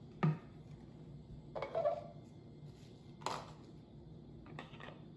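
Bottles being handled while getting ready to fill one with water: a few separate knocks and clatters.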